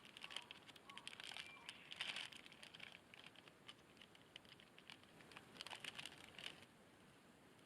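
Faint, quick, irregular light clicks and crackles that stop near the end.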